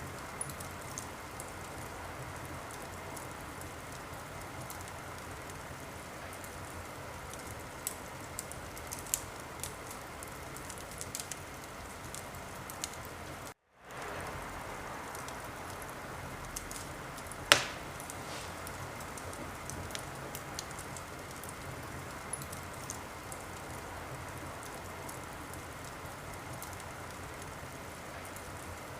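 Wood fire crackling in a fireplace: a steady hiss with scattered small pops, and one loud sharp crack a little after halfway. The sound drops out for a moment just before that crack.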